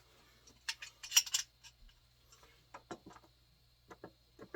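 Metal hand tools clinking and clicking: a quick cluster of sharp clinks about a second in, then a few scattered single clicks.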